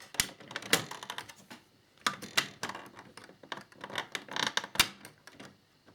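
Small plastic model parts clicking and tapping as the fairing panel is handled, pressed and screwed onto the motorcycle model: an irregular run of sharp clicks with a short pause, and one louder click near the end.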